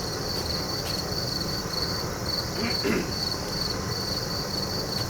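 Insects chirping steadily outdoors in a high, even pulse of about three chirps a second, over a steady low rushing noise.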